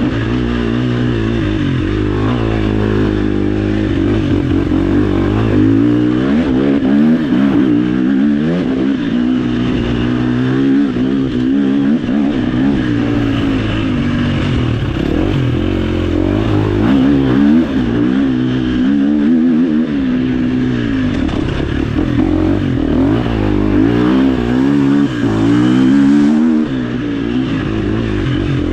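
Dirt bike engine revving up and down continuously, its pitch rising and falling every second or two as the rider works the throttle.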